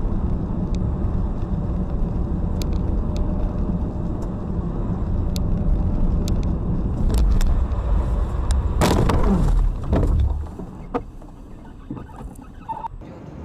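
A car driving, recorded by a dash camera: a steady low rumble of road and engine noise. About nine seconds in there is a loud, noisy burst lasting about a second with a falling tone, and then the rumble drops off sharply, leaving a few faint clicks.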